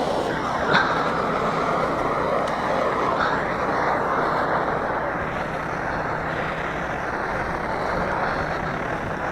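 Steady drone of a model aircraft engine flying over the field, mixed with outdoor noise, with one short click about a second in.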